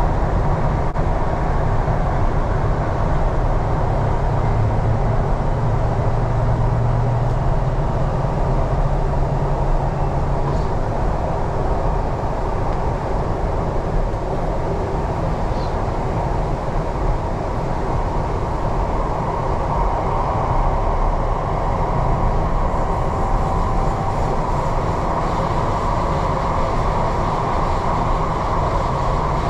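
MTR East Rail Line R-Train electric multiple unit running, heard from on board: a steady rumble of wheels on rail. A low hum sits under it for the first ten seconds or so, and a higher whine comes up over the last ten seconds.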